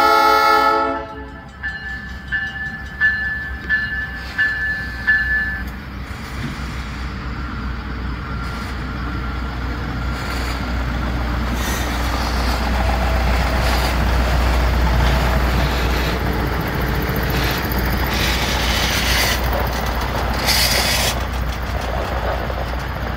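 A Budd RDC diesel railcar's horn ends about a second in. A grade-crossing bell dings about twice a second for the next few seconds, then the railcar passes close by: a low diesel rumble and steel wheels on rail, with clicks over the joints and crossing.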